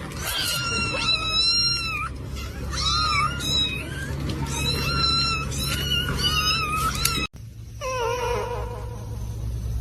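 A cat meowing over and over in high-pitched calls that bend up and down, several a few seconds apart, over a steady low hum. About seven seconds in the sound cuts abruptly, and a lower-pitched drawn-out call follows.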